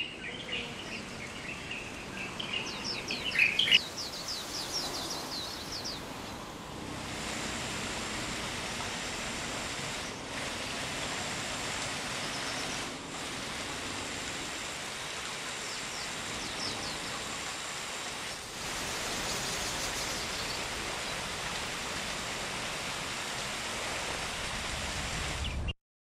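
A wild bird singing rapid trills of short, high notes over a steady rushing noise. The song comes in the opening seconds and again briefly about two-thirds of the way through, and the sound cuts off suddenly near the end.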